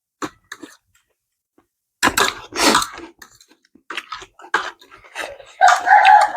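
Close-miked chewing and crunching of food, in short crisp clicks, with two loud bursts about two seconds in. A rooster crows near the end.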